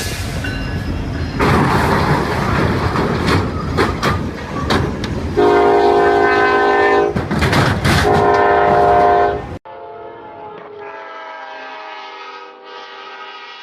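Freight train rushing past with a heavy rumble and rattling clatter, then two long blasts of its multi-chime air horn. After an abrupt cut, a more muffled locomotive horn sounds steadily.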